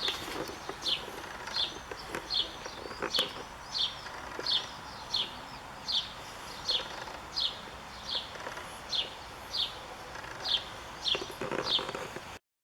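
A bird repeating a single short, high, downward-slurred call about every two-thirds of a second, with faint scattered clicks beneath; the sound cuts off just before the end.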